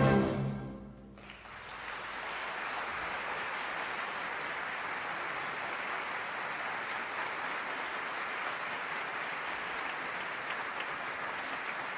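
A concert band with solo tuba ends the pasodoble on a loud final chord that dies away within about a second, then the audience breaks into steady applause that carries on.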